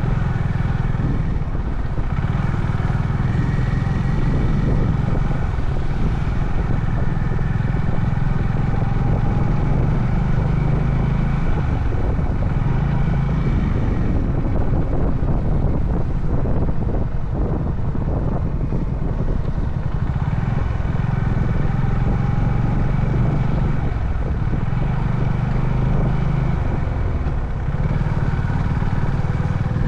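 Honda CB350 Highness's single-cylinder engine running steadily under way, its revs rising and easing off several times as the throttle changes.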